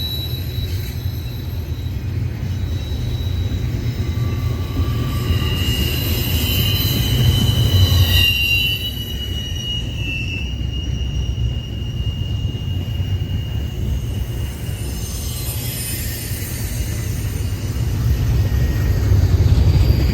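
Freight train cars rolling past with a steady low rumble, and high wheel squeal rising and fading over it, loudest around the middle and near the end.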